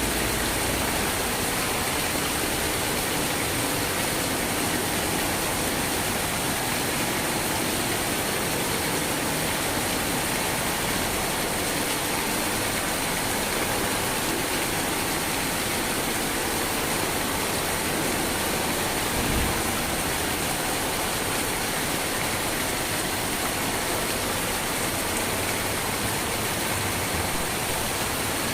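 Steady, even rain with no change in intensity. A brief low thump comes about two-thirds of the way through.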